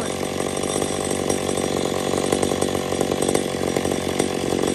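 McCulloch 850 two-stroke chainsaw running at full throttle and held steady under heavy load while bucking a felled fir log.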